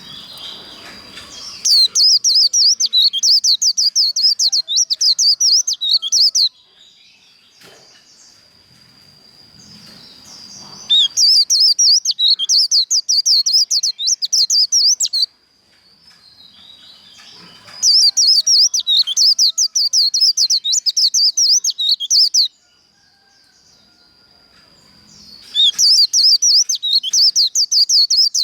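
White-eye (vành khuyên) singing its rapid, twittering 'líu' song in four bursts of about four to five seconds each. This is the competition song used to fire up other white-eyes. A thin, steady high whistle carries on between the bursts.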